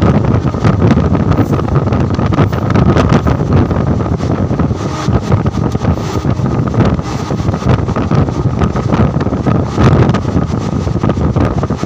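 Wind buffeting the microphone over the steady rumble of a moving passenger train, heard from on board. The noise is loud and even, with no single event standing out.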